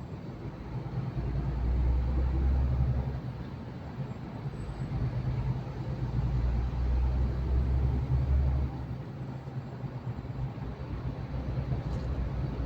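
Truck engine and road noise heard from inside the cab while driving: a steady low drone that swells louder twice for a few seconds.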